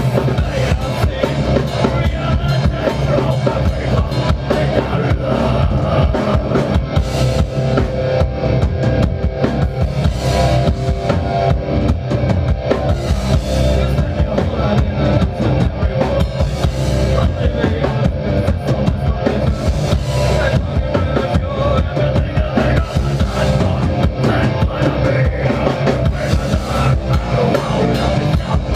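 Progressive death metal band playing live at full volume, the drum kit driving a fast, dense beat with heavy bass drum.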